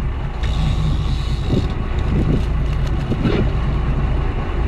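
Fishing boat's engine running steadily at a low hum, with wind noise on the microphone.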